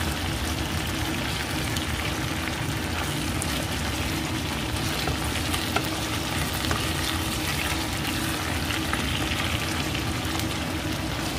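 Chicken pieces frying in hot oil with onion and garlic in a pan: a steady sizzle with a few faint pops.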